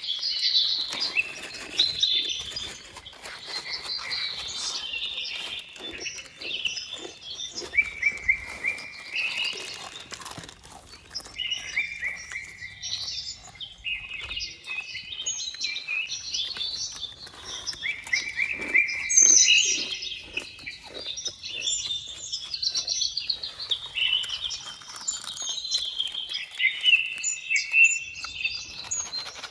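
Many small birds chirping and twittering continuously in overlapping short, high calls and trills, with scattered faint clicks underneath.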